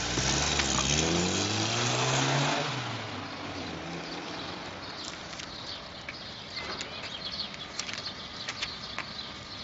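A car engine accelerating, its pitch rising and then dropping as it fades away over about the first three seconds. Quieter background with scattered light ticks follows.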